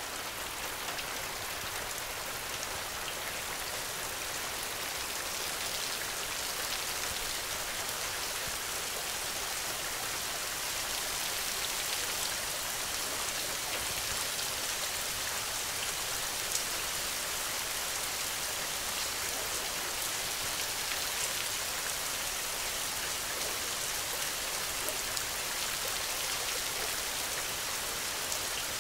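Steady rain falling on a hut's window: an even hiss with scattered single drop ticks.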